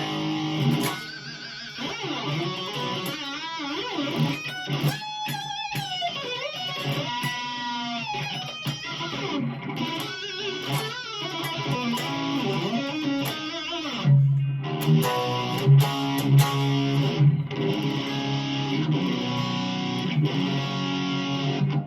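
1992 Gibson Les Paul Custom electric guitar played through a high-gain, distorted amp on its bridge pickup, an Oil City Scrap Yard Dog Plus Alnico 5 humbucker. Single-note lead lines with bent notes and vibrato give way at about fourteen seconds to louder, heavier low chords.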